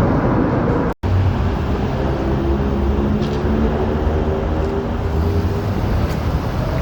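Steady hum of passing motor traffic with a low engine drone, broken by a sudden moment of complete silence about a second in.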